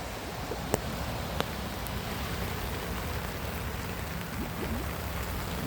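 Steady rain falling on standing floodwater, an even hiss over a low rumble, with a couple of sharp drop ticks about a second in.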